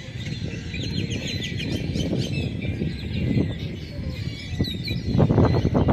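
Many birds chirping in quick short calls over a low rumbling noise, which turns louder and choppier near the end.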